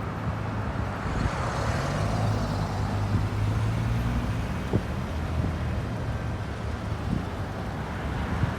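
Road traffic on a busy street: a steady wash of tyre and engine noise, with one vehicle's low engine hum rising in pitch about a second in and then holding steady.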